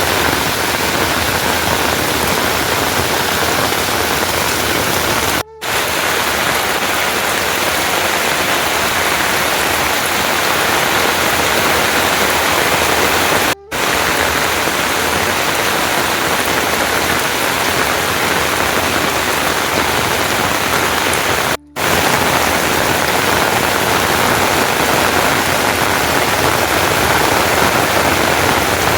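Heavy, steady rain, a dense unbroken hiss. It cuts out for a split second three times.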